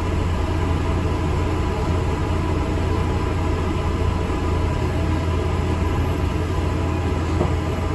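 ADL Enviro 400 MMC double-decker bus running, heard from on board: a steady low engine drone and rumble.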